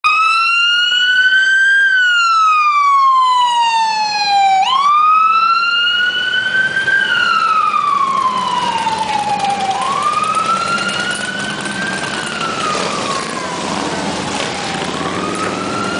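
Emergency-vehicle siren on the lead escort vehicle wailing, its pitch rising and falling slowly every few seconds and fading a little as it goes by. From about six seconds in, a growing low rumble of the motorcycle procession's engines joins it.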